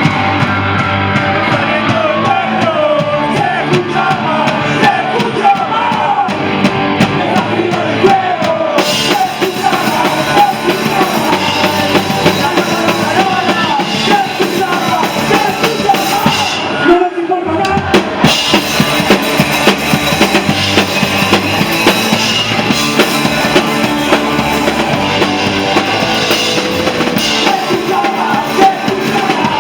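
Punk rock band playing live, drum kit prominent, with a brief stop about halfway through before the band comes back in.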